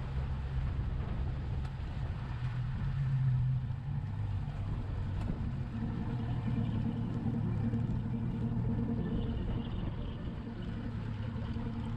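Motorboat engine running steadily under way, a low drone whose pitch drops slightly about four to five seconds in.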